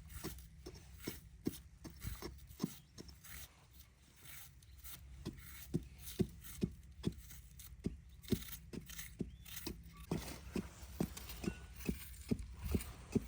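Knife chopping on a wooden board: a steady run of sharp knocks, about two a second, louder in the last few seconds.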